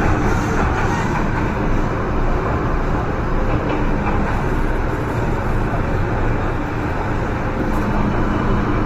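MTR M-train electric multiple unit heard from inside the carriage while running at steady speed: continuous rumble of wheels on rail with a steady underlying hum.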